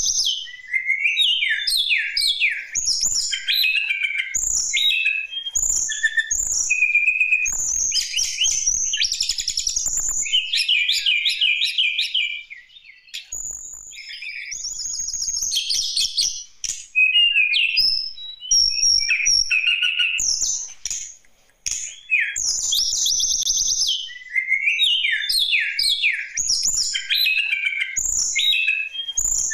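Tledekan gunung singing a rapid, varied song of chirps, trills and whistled notes in phrase after phrase, with brief breaks about thirteen and twenty-one seconds in. It is a bait recording played to provoke other birds to sing.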